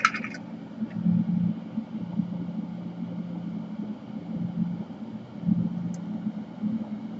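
Steady low hum of a fume-exhaust fan running at the workbench, slightly wavering in level, with a short sharper sound right at the start.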